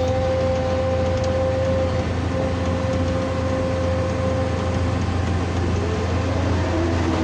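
Excavator running steadily: a low engine rumble with a steady whine on top, and a brief sliding tone near the end.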